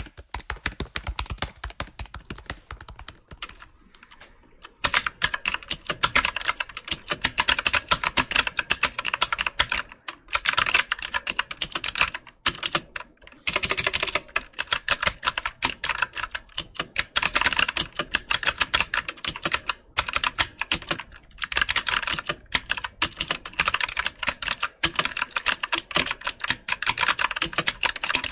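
Typing on a computer keyboard: keys clicking and tapping. It starts with scattered keystrokes, eases off briefly, then runs into rapid, continuous typing from about five seconds in, with a few short pauses.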